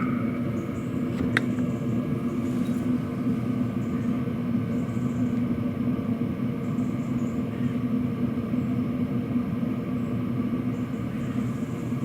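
Exhaust of a 5 kW Chinese diesel heater running steadily through a scooter silencer: an even, low drone. A single sharp click comes about a second and a half in.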